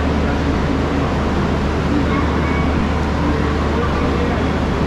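Steady low hum of a double-decker AC chair car train standing at the platform, with people talking nearby.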